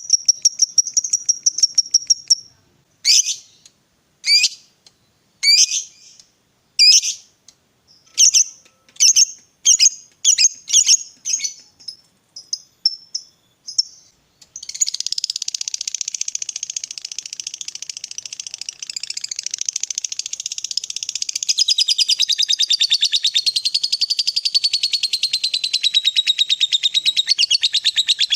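Lovebird singing. It opens with a fast ticking trill, then gives a string of sharp, shrill single calls that come quicker and quicker. From about halfway it breaks into one long, unbroken rapid chatter: the long 'ngekek' song of a competition lovebird.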